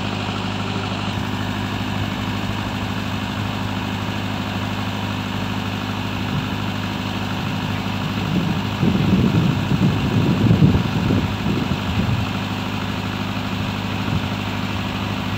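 Diesel engine idling steadily, with a louder irregular rumble over it for about four seconds past the middle.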